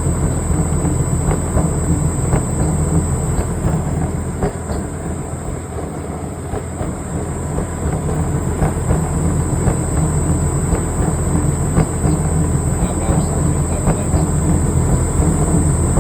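Hotpoint tumble dryer running with its drum turning on a damaged drive belt that has been temporarily fixed: a steady low rumbling hum with light clicks.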